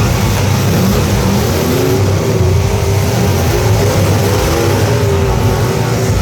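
Truck engines running loud and revving, the engine pitch wavering up and down, over a heavy rumble.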